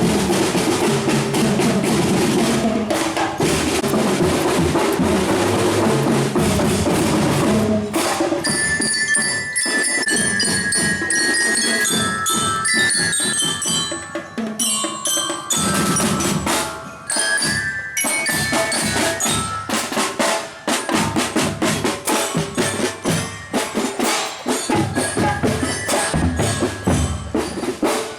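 Marching drum band playing: snare and bass drums in a dense, continuous roll at first, then about a third of the way in a glockenspiel-like mallet melody rings out high over the drums, which carry on in sharp, separate accented beats.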